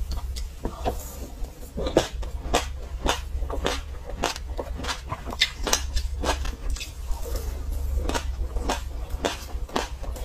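Close-miked crunching of a mouthful of dry sesame seeds being chewed, sharp crisp crackles about twice a second, over a steady low hum.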